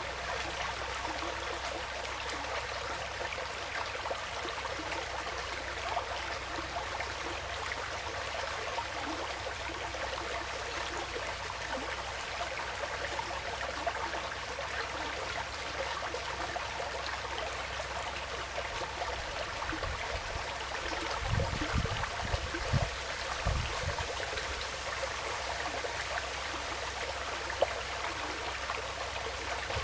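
Woodland stream flowing with a steady trickling, splashing sound. A few dull low thumps come about two-thirds of the way through.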